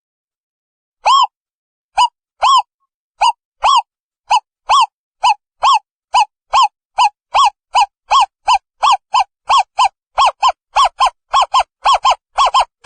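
Owl calling: a series of short hoots, each rising then falling in pitch, that speeds up from about one a second to about three a second.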